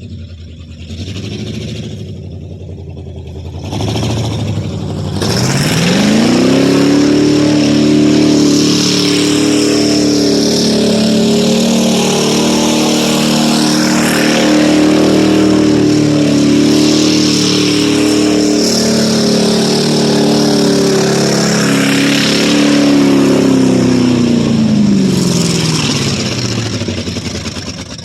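1995 Ford F150's 5.8-litre (351) V8 revving up hard about five seconds in and held at high revs for about twenty seconds, then dropping back near the end. The engine has a couple of cylinders not firing, which the owner puts down to a head gasket or a cracked head.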